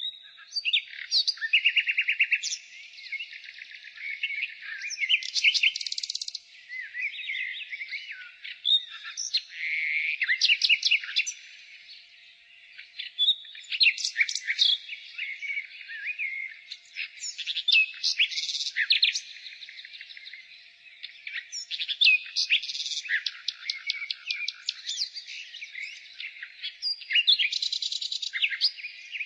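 Nightingale singing: a continuous run of varied phrases with rapid trills and fast repeated notes, separated by short pauses.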